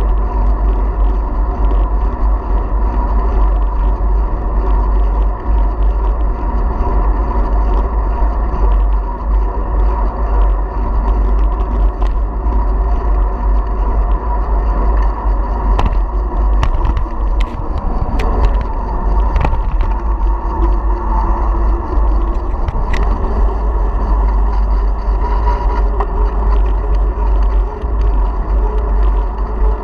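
Cycling noise picked up by a GoPro action camera on a moving bicycle: steady wind rumble on the microphone over tyre noise, with a few sharp rattling clicks about halfway through.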